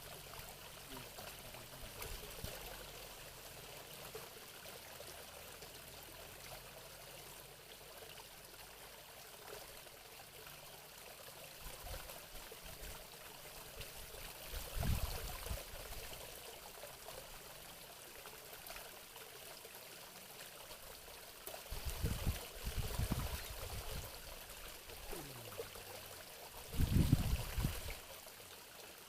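Water running and trickling steadily, with a few brief low bumps about halfway through and twice near the end.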